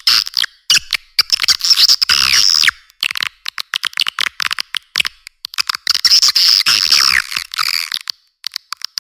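Recorded swiftlet lure call: dense, twittering swiftlet chatter in two long bursts, with fast trains of clicks between them. This is the call sound played in swiftlet houses to draw the birds in to roost and nest.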